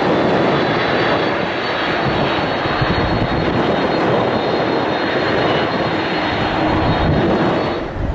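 Airliner departing, its engines at takeoff power: a loud, steady engine noise with a thin high whine over it. The sound drops off sharply near the end.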